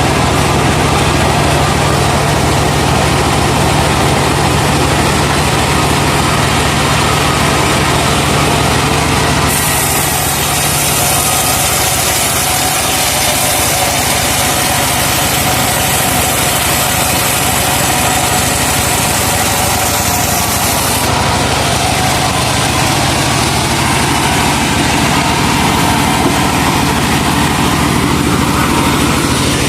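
Engine of a truck-mounted sawmill running steadily under power. From about ten seconds in until about twenty-one seconds a high hiss joins it as the saw cuts through a laban log.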